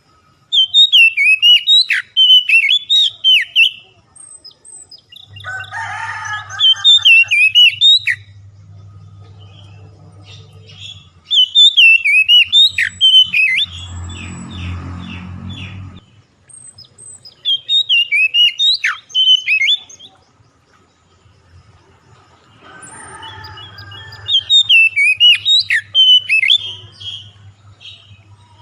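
Songbird song played as a lure track to set caged birds singing. A rapid phrase of high chirps and whistled sweeps lasts about three seconds and comes back roughly every six seconds, with a faint low hum between some phrases.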